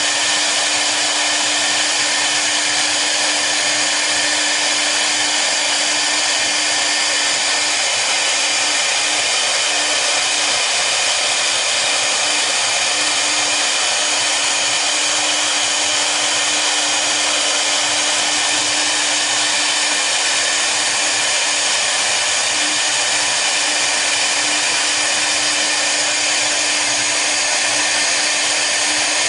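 Double-head CNC router running steadily, a constant whirring noise with a steady hum underneath and no change.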